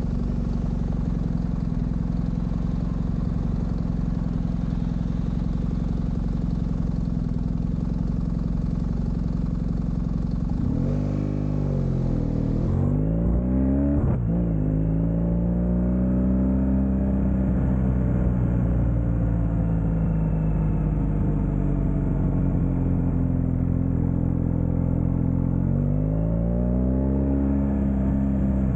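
Motorcycle engine running at a steady speed, then about ten seconds in the revs drop and climb again, and dip and climb once more near the end. There is a single sharp click around the middle.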